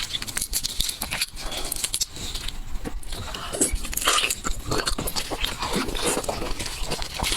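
A person eating seafood, close-miked, biting and chewing with many short irregular crunches and wet clicks.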